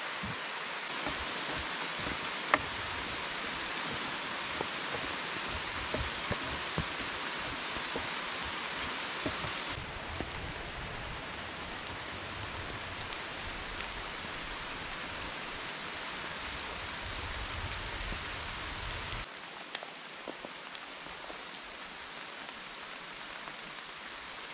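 Steady rain falling on forest leaves: an even patter with scattered single drops and one sharper tap about two and a half seconds in. The sound changes abruptly about ten seconds in and again near nineteen seconds, where it becomes quieter.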